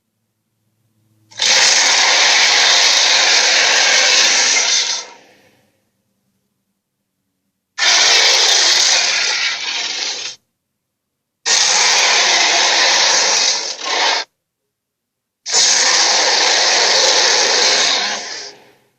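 Dragon sound effects: four long, breathy, unpitched roars, each lasting about three to four seconds and cut off into silence before the next.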